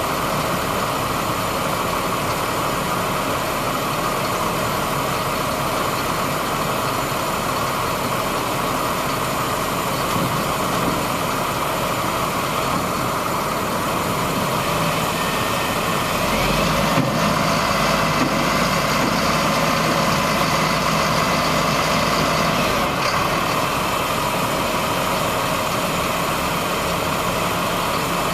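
2001 Ford flatbed dump truck's engine idling steadily. About sixteen seconds in it turns louder and deeper for some seven seconds, then drops back to idle.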